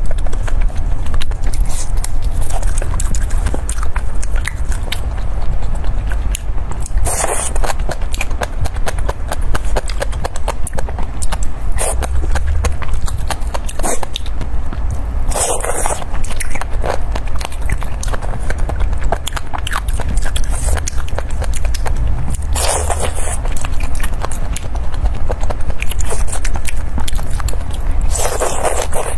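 Close-miked eating sounds: wet chewing, biting and lip smacking of skewered food in chili oil, including chicken feet, in dense rapid clicks. Four brief louder noises stand out, spaced about seven or eight seconds apart, over a steady low hum.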